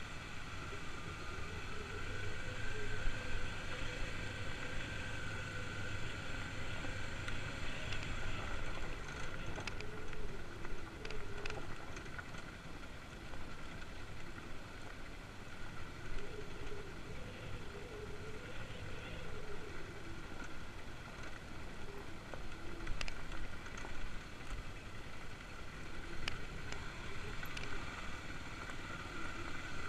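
Kawasaki KLX250's single-cylinder four-stroke engine running under way on a dirt trail, its pitch rising and falling as the throttle is worked, with a few sharp clicks and knocks scattered through.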